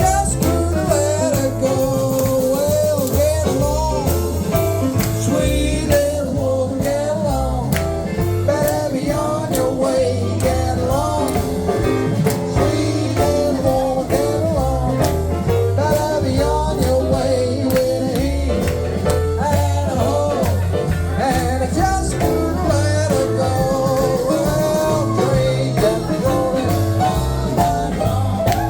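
A live band playing an up-tempo rock-and-roll blues number: a walking bass line and drums keep a steady driving beat under a bending lead melody.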